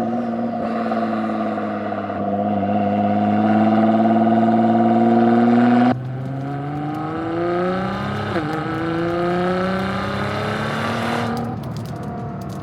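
Nissan GT-R R35's twin-turbo 3.8-litre V6 pulling under load, its pitch climbing slowly. About six seconds in the sound cuts abruptly to another pass where the revs rise, drop sharply at a gear change, then climb again.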